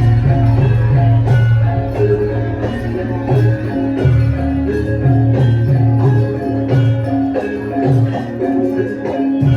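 Javanese gamelan ensemble playing: struck metallophones ring out a quick, even run of notes over a strong low part.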